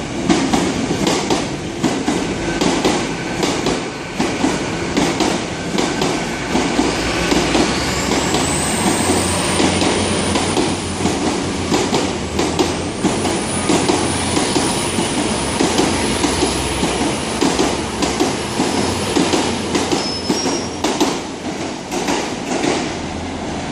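Two coupled GWR Class 802 IET bi-mode units passing on diesel power: a steady rumble with wheels clicking over rail joints. A thin high squeal rises about eight seconds in and then holds.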